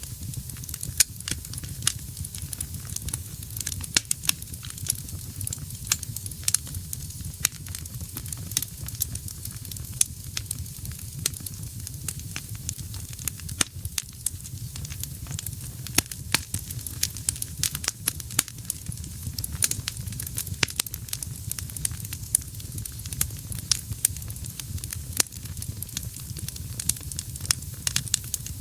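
Wood fire burning in a fireplace: a steady low rumble of flames under frequent irregular crackles and sharp pops from the burning wood.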